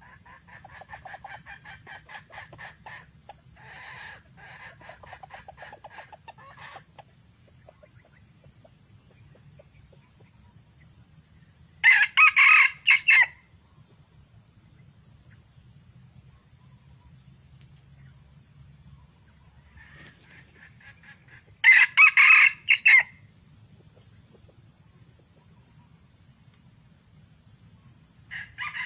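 Junglefowl calling: a run of rapid clucking notes for the first several seconds, then two loud short crows about ten seconds apart, and a fainter crow near the end.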